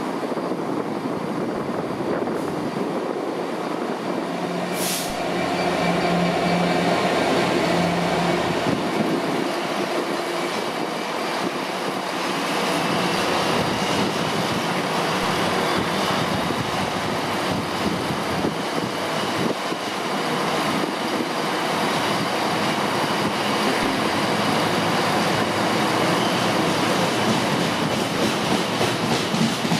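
Freightliner Class 66 diesel locomotive passing close with its engine running, loudest about five to nine seconds in, with a brief high hiss about five seconds in. It is followed by a long rake of empty container flat wagons rolling by, wheels clicking over the rail joints with a faint squeal.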